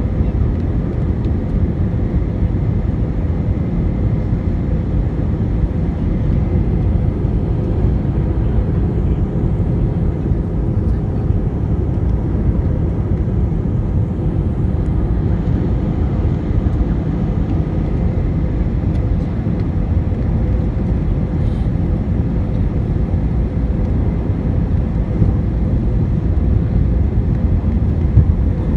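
Steady jet airliner engine and airflow noise heard from inside the passenger cabin, a low, even rumble with a faint steady hum.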